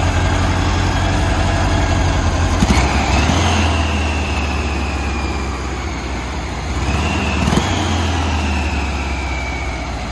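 1979 VW Beetle's air-cooled flat-four running at idle, its speed rising twice: about three seconds in and again about seven and a half seconds in, each time climbing quickly and then sinking slowly back to idle. The owner believes the engine is running lean.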